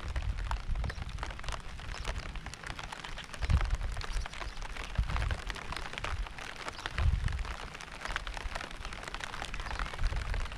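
Steady rain, with many close drops ticking on a surface. Low rumbling swells come and go every couple of seconds.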